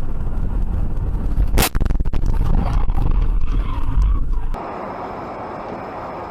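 Heavy road and wind rumble in a car, broken about one and a half seconds in by a sharp bang with a few smaller knocks right after, as of a collision. It cuts off suddenly near the end to a quieter, steady road noise.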